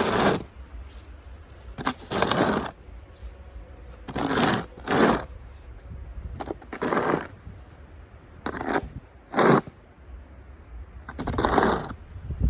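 Snow shovel scraping and pushing through snow in repeated strokes, about one every second or two, over a steady low rumble.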